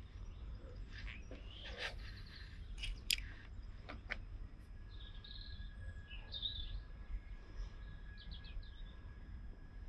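Small birds chirping and calling, with a short quick trill near the end, over a constant low rumble. A few sharp clicks come in the first half, the strongest about three seconds in.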